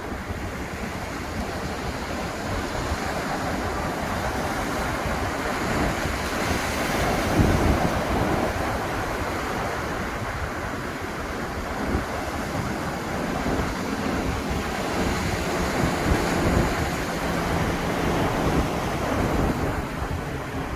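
Atlantic surf: waves breaking and washing onto the beach in a steady wash, with wind buffeting the microphone. One wave swells loudest about seven seconds in.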